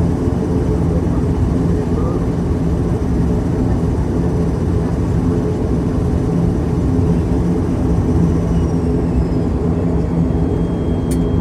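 Cabin noise of an ATR 72 turboprop on the ground after landing: its engines and propellers run with a steady low drone and an even hum. A brief click sounds near the end.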